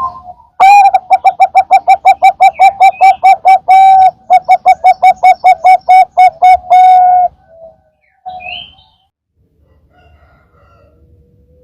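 Zebra dove (perkutut) calling: a loud, fast run of repeated cooing notes, about five a second, lasting some six seconds with one held note partway through. A short softer call comes after it.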